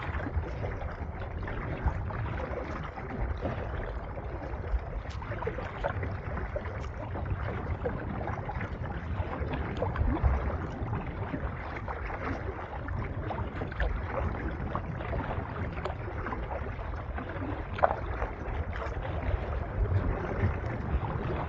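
Wind buffeting the microphone with a steady low rumble, while small choppy waves lap and slap against the hull of an Old Town Vapor 10 kayak.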